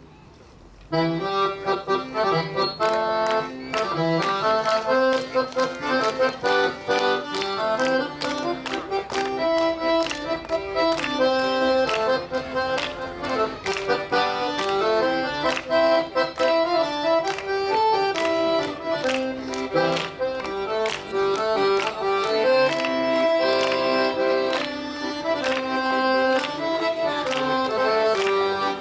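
Accordion playing a Korean trot tune, melody over chords with a steady rhythmic beat, starting about a second in.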